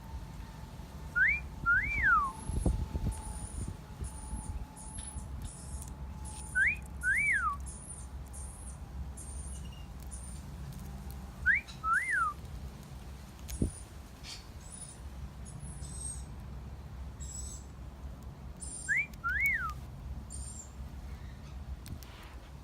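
A two-note wolf whistle, a quick rising note and then a rising-and-falling one, repeated four times about five to seven seconds apart, the kind of whistle taught to a cockatiel. Faint high chirps come in between, with a couple of low thumps.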